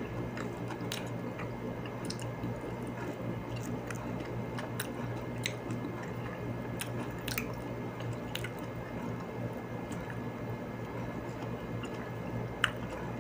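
Close-up chewing of fruit, with scattered small wet clicks and smacks, over a steady low hum.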